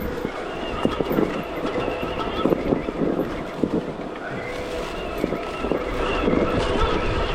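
Stark Varg EX electric dirt bike's motor whining while riding off-road, its pitch climbing about four seconds in, with scattered knocks and rattles from the bike over rough ground.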